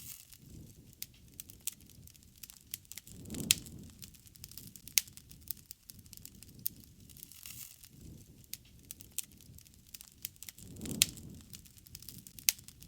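Wood bonfire crackling, with frequent sharp pops and snaps. Twice, about a quarter of the way in and again near the end, a low rushing swell rises under the crackle with the loudest pops.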